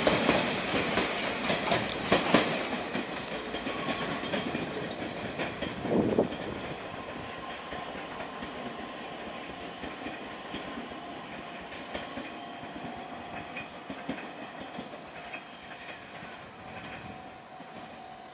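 Nishitetsu 6050-series electric train pulling away, its wheels knocking on the rails, with a louder knock about six seconds in. The sound fades steadily as the train draws off into the distance.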